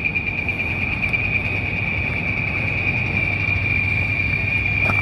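Cicadas (chicharras) buzzing in one steady, unbroken high drone, over a continuous low rumble.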